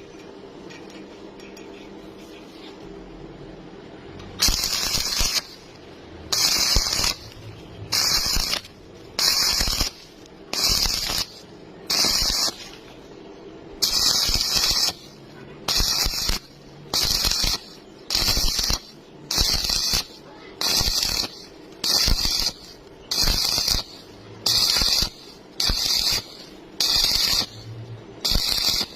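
Electric arc welding on steel TMT rebar: after a few seconds of low hum, a long run of short tack welds, each a hissing crackle of about half a second to a second, roughly one every second and a half.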